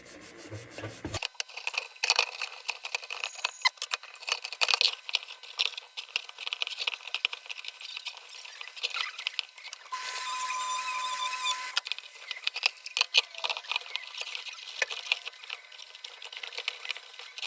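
Steel wool scrubbing and handling the sheet-steel body of a Dietz No. 2 Blizzard kerosene lantern: a run of small irregular scratches and clicks. About ten seconds in, a louder hiss with a steady tone lasts about two seconds.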